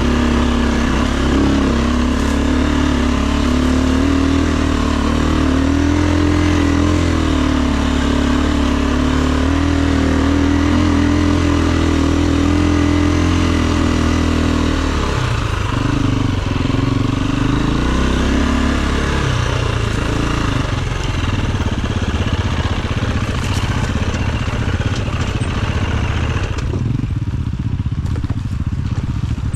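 Dirt bike engine running while riding, its pitch holding fairly steady for about fifteen seconds, then rising and falling with the throttle before settling lower. Near the end the hiss of wind and road noise drops away.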